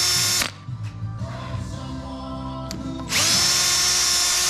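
Power drill running at high speed to clean an LS engine block's deck surface, a steady high whine. It stops about half a second in and starts again, spinning up quickly, about three seconds in.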